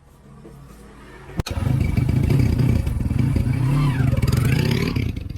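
Win 100cc motorbike's single-cylinder two-stroke engine starting about a second and a half in and running loud, its pitch dipping and rising again as it is revved.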